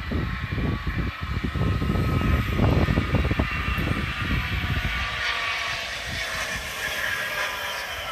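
Wind buffeting the microphone in irregular gusts, over a steady higher hiss with a faint whine in it.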